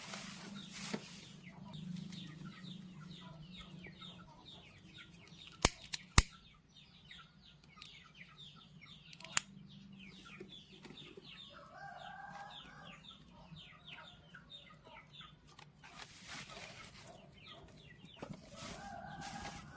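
Birds calling, with rapid short falling chirps throughout. A longer wavering call comes twice, about twelve seconds in and near the end. A few sharp clicks come about six and nine seconds in.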